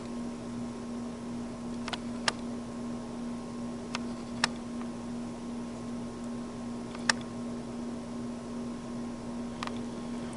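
Gas furnace air handler blower running on with a steady hum after the burners have shut off, still pushing warm air before its fan delay ends. A few short, sharp ticks sound at irregular moments.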